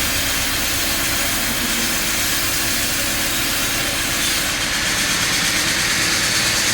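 Sawmill machinery running steadily: a continuous hiss over an engine-like hum, its tone shifting slightly about four and a half seconds in.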